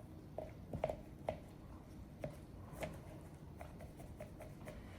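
A scattering of faint, short taps and clicks as small pieces of camp coffee gear, such as a drip filter and mug, are handled and set down.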